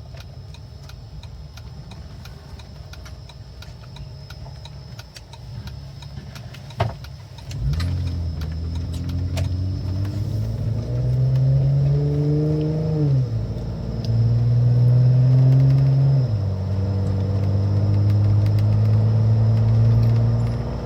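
Jeep Wrangler engine idling, then after a click about seven seconds in it pulls away, its pitch rising and dropping back twice as it shifts up through the gears. The engine has an intermittent cylinder 1 misfire (code P0301).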